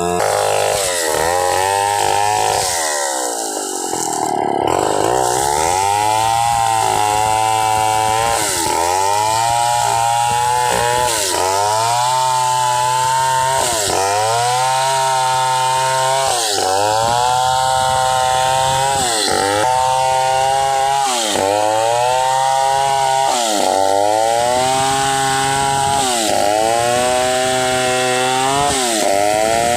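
Stihl 070 two-stroke chainsaw sawing through pule wood for planks, the engine pitch sagging and rising again in a regular cycle about every two seconds as the bar works the cut.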